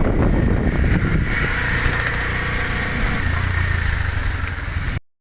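Motorcycle engine running, with a steady rush of wind noise over it; the sound cuts off abruptly near the end.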